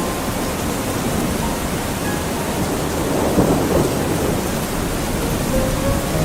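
Steady heavy tropical rain heard from inside a wooden house, with a low rumble underneath that swells briefly about three seconds in.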